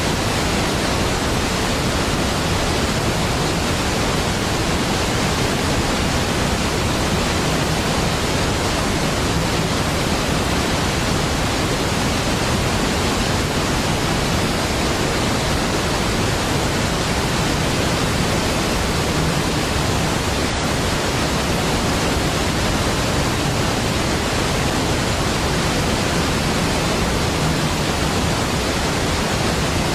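Large waterfall: a deep, steady, even rush of falling water with no breaks.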